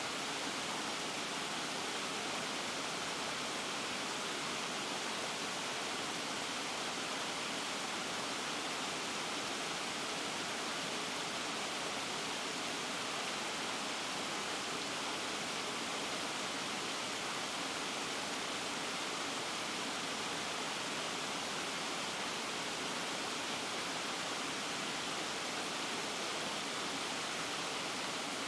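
Steady, unbroken rushing noise with no distinct events, strongest in the upper range and thin in the bass.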